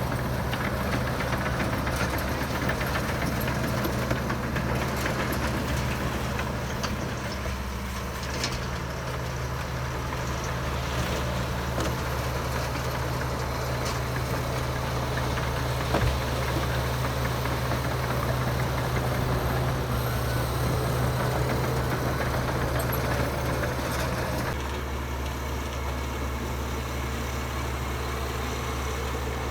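Heavy diesel engine of earthmoving machinery running steadily at low revs, a low even drone. There is a single sharp knock about 16 seconds in, and the tone shifts slightly near the end.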